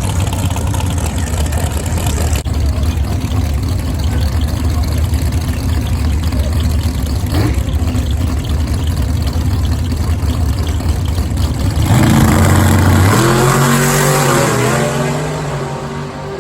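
Race engines at a drag strip: a steady low rumble, then about twelve seconds in a louder stretch of engine sound whose pitch rises and falls, easing off near the end.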